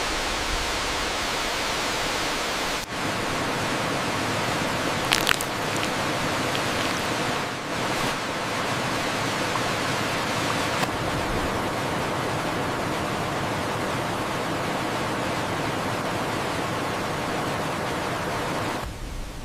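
Steady rush of a waterfall, an even wash of water noise, with a brief sharp crack about five seconds in.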